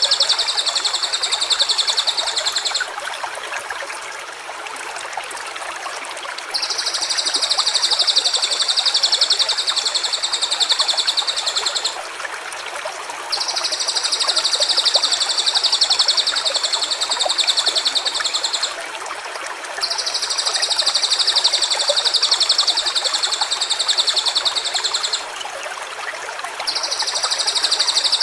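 A high, even, rapid trill, each one about five to six seconds long, repeating four times with short gaps, over the steady rush of a stream.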